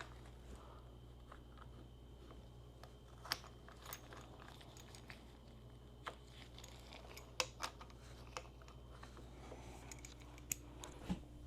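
Scattered light clicks and taps of parts and hand tools being handled during motorcycle reassembly, over a steady low hum.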